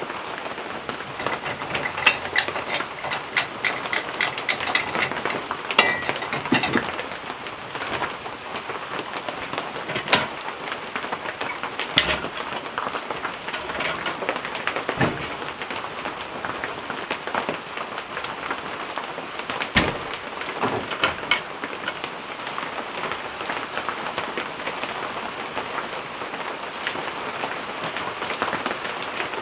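Steady rain falling, with scattered sharp ticks and knocks over it, including a quick run of ticks a couple of seconds in.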